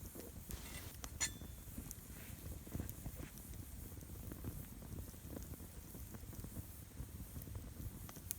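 Wood campfire crackling: scattered small pops and ticks, the sharpest about a second in, over a low steady background.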